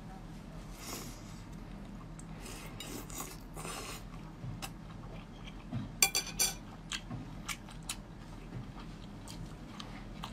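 Close-miked biting and chewing of skewered shellfish meat, with wet mouth sounds and scattered small clicks. A cluster of sharper clicks comes about six seconds in.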